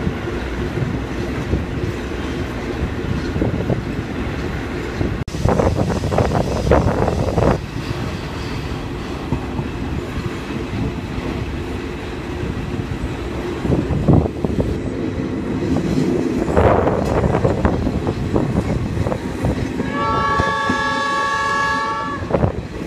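Passenger train running on the rails, heard from an open carriage window, with a few sudden louder surges of wheel noise. Near the end the locomotive's horn sounds one steady chord of several notes for about two seconds.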